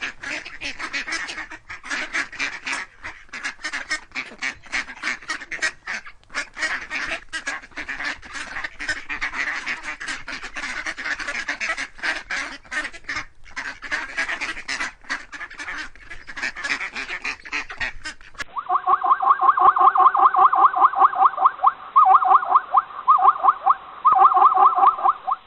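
A flock of ducks calling in a dense, chattering mass of overlapping quacks. About 18 seconds in, a cut brings a cleaner run of rapid, evenly pitched quacks in quick series.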